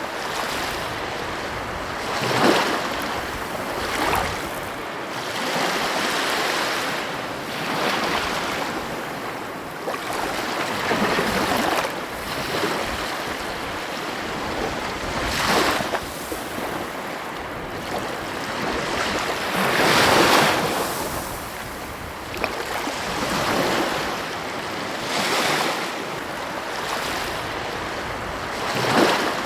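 Ocean surf breaking on a beach: a steady wash of noise that swells as a wave breaks every few seconds.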